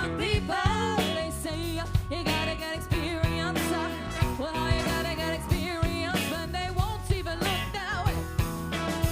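Live funk and soul band playing: a steady drum beat under a wavering lead melody line.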